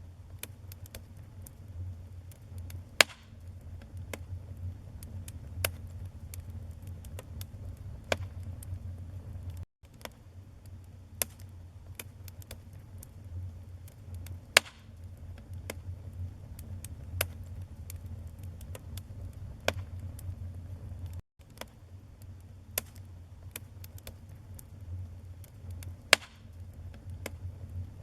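Fire burning in a fireplace: a steady low rumble of flames with frequent sharp crackles and pops, three of them much louder. The sound cuts out for an instant twice.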